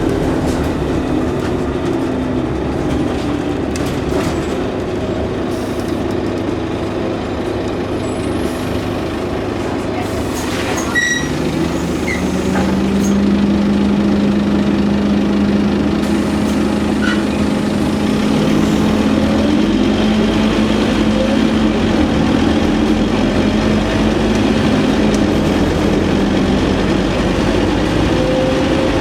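Scania N230UD OmniCity double-decker bus under way, its diesel engine and ZF automatic gearbox running steadily. About eleven seconds in there is a short knock, then a whine rises and holds at one steady pitch until near the end.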